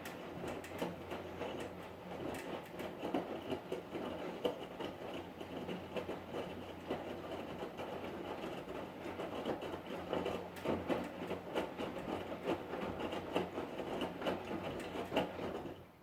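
Hotpoint Ariston washing machine running, its drum turning with a hum and a constant irregular rattling and knocking. It stops abruptly near the end.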